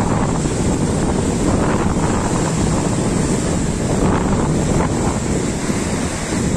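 Sea waves washing on the shore, with strong wind buffeting the microphone.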